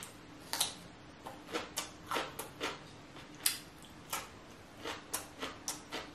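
Close-miked chewing of crisp cucumber: irregular crunches and wet mouth clicks, about two or three a second.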